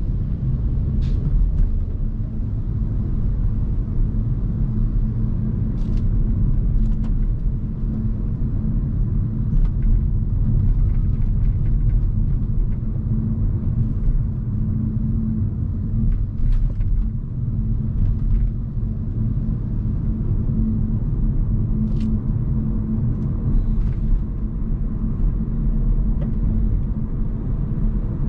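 Hyundai Kona Hybrid driving along, a steady low rumble of road and tyre noise, with a few brief ticks scattered through it.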